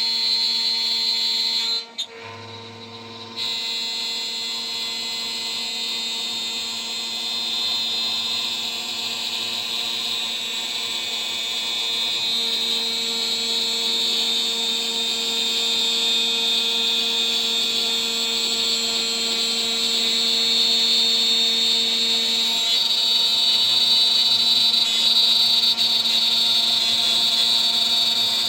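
DIY CNC router spindle running at 14000 RPM with a 3 mm three-flute end mill milling, a steady high whine with cutting noise. The sound drops away for about a second and a half about two seconds in, then resumes and carries on steadily.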